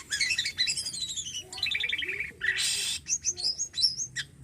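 Jalak kapas starling singing a fast, varied song of chirps and whistled notes that slide up and down, with a harsh rasping burst about two and a half seconds in.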